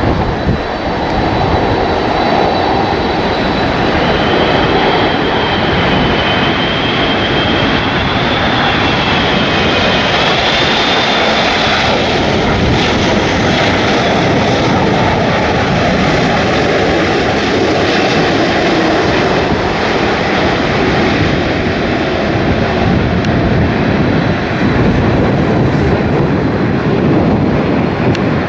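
Jet engines of an Airbus A380 running steadily loud as the aircraft comes in to land in a strong crosswind, with a high whine that wavers in pitch for several seconds.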